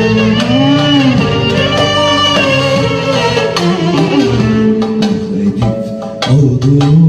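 A live band plays the instrumental break of a Turkish song: a sustained melody line over percussion, with hand-drum strikes growing stronger in the last couple of seconds.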